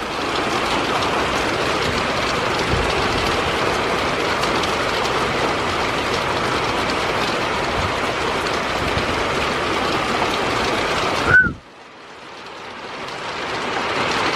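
Heavy rain pouring down in a thunderstorm: a steady, even hiss. About eleven seconds in it breaks off suddenly just after a brief high chirp, then swells back up.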